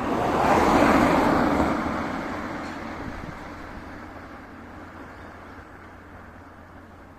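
Steam-hauled passenger train rolling past, wheels on rails, loudest about a second in and then fading steadily as it moves away.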